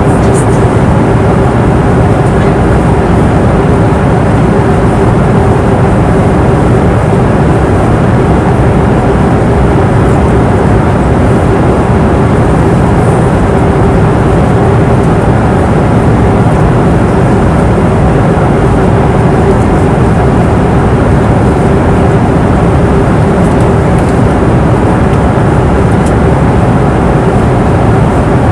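Steady cabin noise of an airliner in flight: a constant low roar of engines and airflow, with a faint steady hum.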